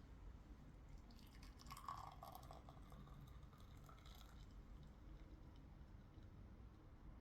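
Near silence: faint room tone with a low hum and a few soft rustles and small clicks between about one and four and a half seconds in.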